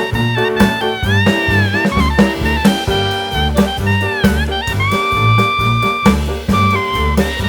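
Background jazz music with brass or saxophone playing a melody that bends in pitch, over a steady bass line and drum beat.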